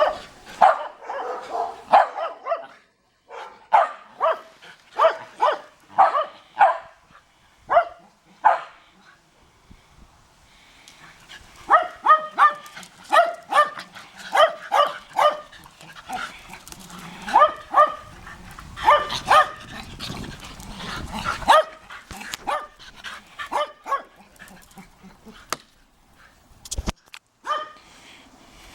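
Shetland Sheepdog barking in quick, repeated volleys, with a short lull partway through and only scattered barks near the end.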